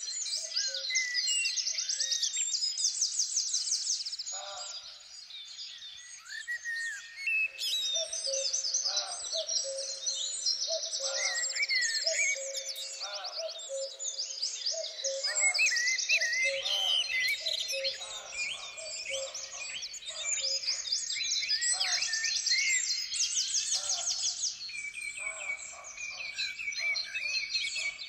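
Several songbirds singing and calling at once in woodland: overlapping chirps, short whistles and repeated rapid trills.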